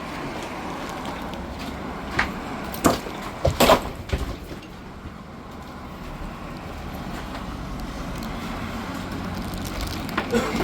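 Flat stones clattering as they are unloaded from a truck, with a few sharp knocks of stone on stone in the first four seconds over a steady low rumble.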